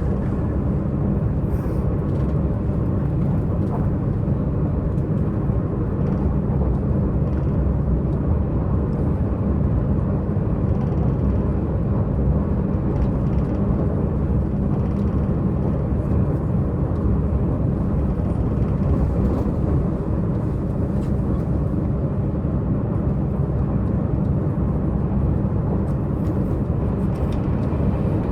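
Diesel multiple unit express train running, its diesel engine drone and running noise heard steadily from inside the passenger car at a window.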